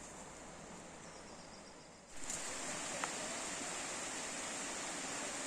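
Steady outdoor hiss of running water with a high, even insect buzz above it, jumping abruptly louder about two seconds in; a single small click near the middle.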